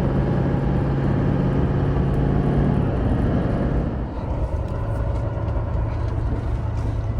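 A vehicle's engine running with road noise while driving; the engine note drops slightly in pitch about four seconds in.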